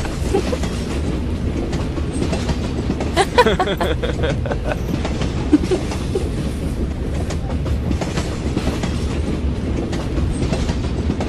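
Steady rumble and rattle of a moving train carriage. About three seconds in, a woman laughs briefly.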